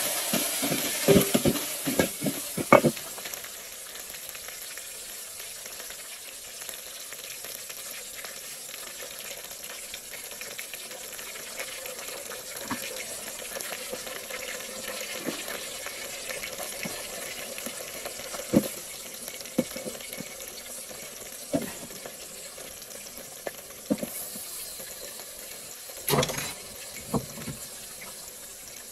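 Food frying in a pot with a steady sizzling hiss, and scattered knocks of a cooking utensil stirring against the pot, a quick cluster of them in the first few seconds.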